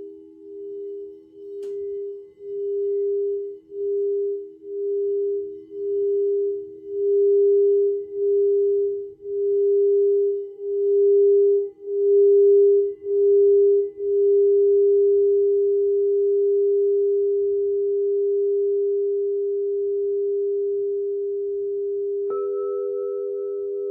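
Alchemical crystal singing bowls sounding pure, sustained tones. The main tone pulses about once a second and swells louder, then rings steadily. Near the end another bowl is struck, adding a higher tone over the first.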